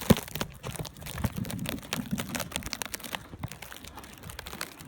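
Irregular crunching and crackling of snow, many small crackles a second over a low rustle, as of steps through deep fresh snow.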